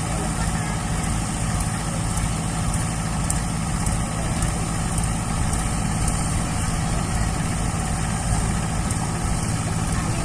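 Heavy diesel engine of a tractor or backhoe loader running steadily at low, even revs, with no change in speed.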